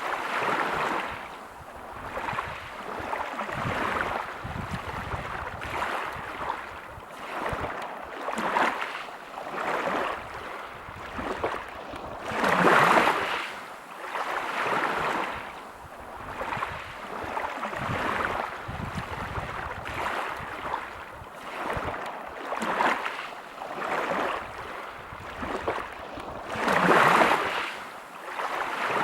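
Sea waves breaking and washing over a pebble beach, a steady wash of surf that swells and falls every second or two, with two bigger waves breaking about thirteen seconds in and near the end.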